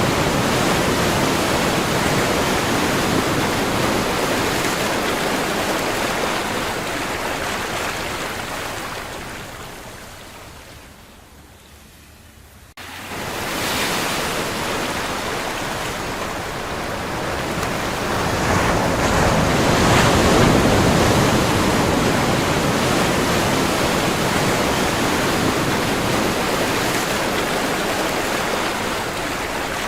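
Ocean surf: waves breaking and washing ashore in a continuous rushing hiss. The sound dies away to a faint hush about ten seconds in, cuts back in suddenly shortly after, and swells with a larger wave near twenty seconds.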